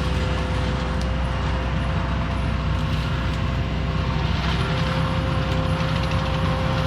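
Compact track loader with a forestry mulcher running steadily, the diesel engine's drone under a constant high whine.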